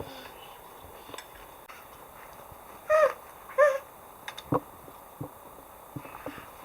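Two short, high-pitched calls about half a second apart, with a few light knocks and clicks around them.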